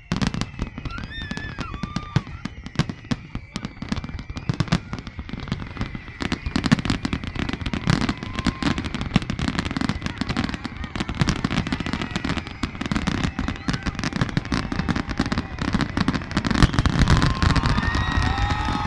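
Fireworks display: rapid crackling and popping with low booms underneath. It grows denser about six seconds in and is heaviest near the end, with a few shouting voices over it.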